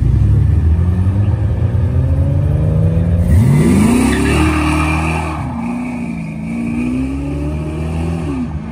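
Car engines accelerating: a rising engine note over the first few seconds, then a second, sharper rev that climbs quickly about three seconds in, settling into a steadier note that wavers for the rest.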